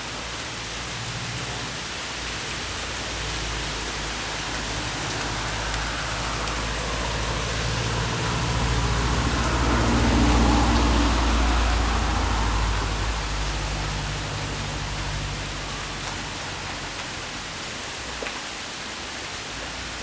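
Steady rain falling, with a low drone that swells to a peak about halfway through and then fades away.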